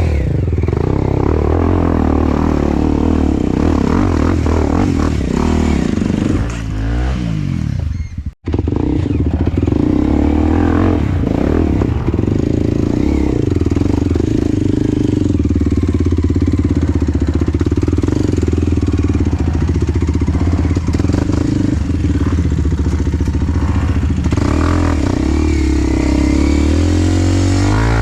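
Enduro dirt bike engine running under way, its revs rising and falling as it is ridden, with a short drop in level about a third of the way through and a split-second break just after.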